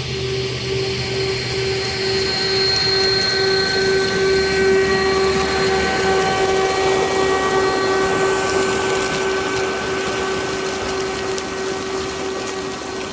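Two leaf blowers running steadily at full power as they push a ride-on flat car along the rails: a steady whine over rushing air, loudest around the middle.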